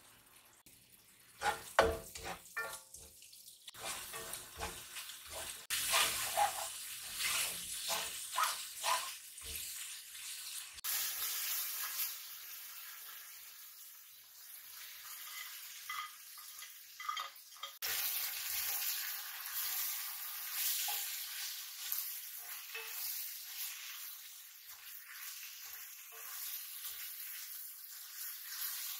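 Knocks and clatter of a utensil against a pan for the first several seconds, then a steady sizzle of food frying in hot oil, getting louder a little past halfway, with light ticks and scrapes of stirring.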